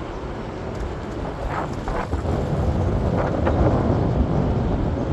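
PATH commuter train running, a steady low rumble that grows louder about two seconds in, with a few brief higher-pitched sounds on top.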